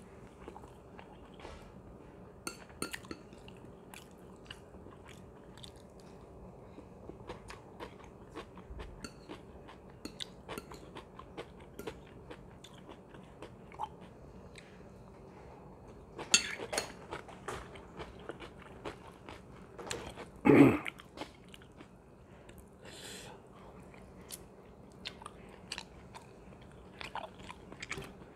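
Close-miked chewing and biting, with wet clicks, smacks and crunches from a mouth eating chicken biryani by hand and forkfuls of sliced cucumber salad. A cluster of louder crunches comes a little past halfway, and one short louder mouth sound stands out about two-thirds of the way through.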